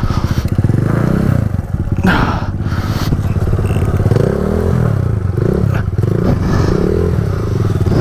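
Pit bike's small single-cylinder engine revving up and down again and again under load, climbing a steep rocky section. A knock comes about two seconds in and another near six seconds.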